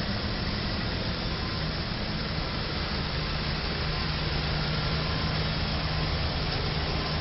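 Steady vehicle engine hum with road noise, even throughout with no impact or crash.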